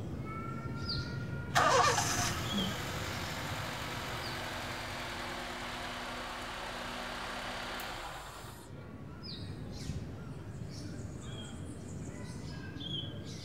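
A car engine cranks and catches about a second and a half in, runs steadily for about seven seconds, then shuts off. Birds chirp faintly throughout.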